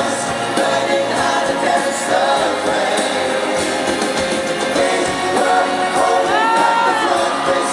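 Live pop-rock band music with singing, recorded in a large arena, loud and continuous; about six seconds in, a voice glides up and then back down in pitch.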